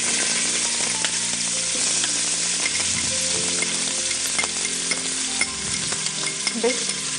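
Chopped onion frying in hot oil in a stainless steel pot: a steady, loud sizzle with scattered small clicks.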